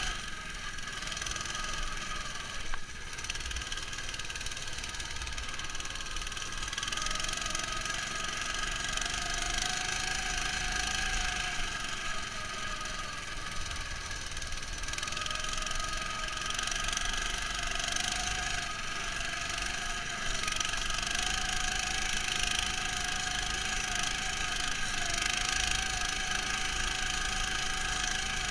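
Neva MS-1 engine running under steady load, its pitch drifting up and down a little, muffled because it is heard through a camera housing. A single knock comes about three seconds in.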